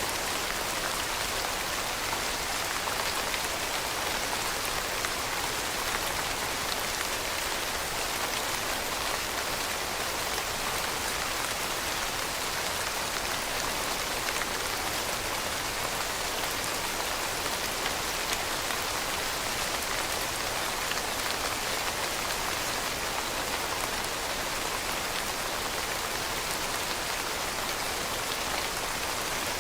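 Steady rain falling, an even hiss of many drops pattering on a surface, with no pauses or changes in intensity.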